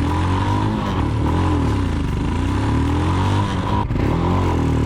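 Royal Enfield Himalayan's single-cylinder engine running through an aftermarket PoweRage slip-on exhaust, a steady motorcycle exhaust note that holds its pitch without a clear rev-up.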